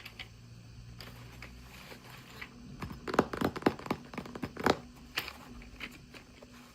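Hands unwrapping a small toy's plastic packaging: soft crinkling, then a cluster of sharp clicks and crackles in the middle.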